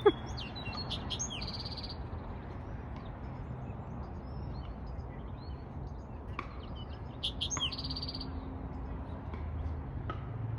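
Small songbird song: two similar bouts of high chirps, each ending in a short buzzy trill, about six seconds apart. A sharp click right at the start.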